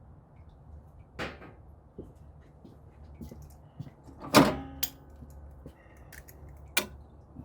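Metal tools and engine parts clanking during work on a truck engine: a few sharp knocks, the loudest about four and a half seconds in with a short metallic ring.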